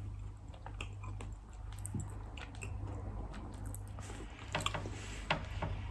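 A person chewing a mouthful of soft homemade strawberry chocolate fudge, with scattered small wet mouth clicks that come thicker near the end, over a steady low hum.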